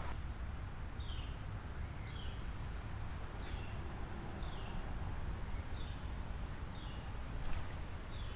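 A bird calling repeatedly: short chirps that slide downward in pitch, about one a second, over a steady low rumble.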